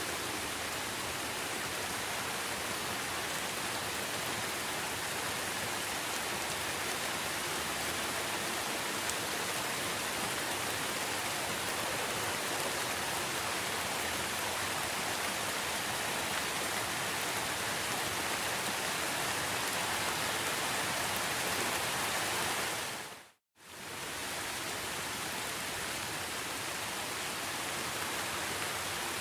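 Steady rain, an even hiss of falling drops. Past the three-quarter mark it fades out to silence for a moment, then fades back in, like a loop restarting.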